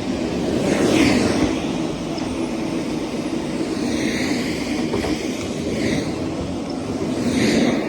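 Vacuum cleaner running with a steady drone, swelling into a whoosh several times as it is worked over the floor.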